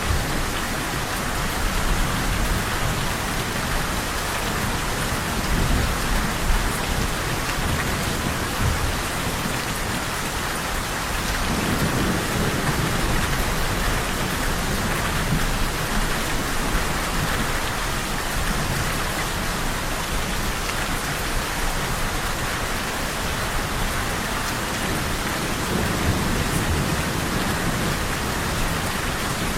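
Steady heavy rain falling, with low rolls of thunder rumbling up and fading several times, the clearest about a third of the way in and again near the end.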